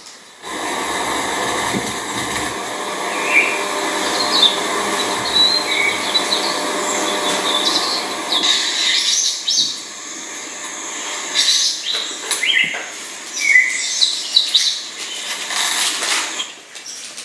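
Birds chirping and calling with short, high notes over a steady background hiss. The hiss drops away about halfway through, and the calls come thicker and louder in the second half.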